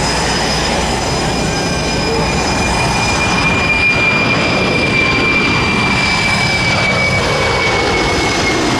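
Jet noise from a C-5 Galaxy's four turbofan engines as it flies past: a steady roar with a high fan whine that slowly drops in pitch.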